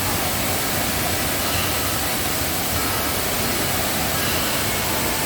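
Waterfall in heavy rainy-season flow: a loud, steady rush of falling water.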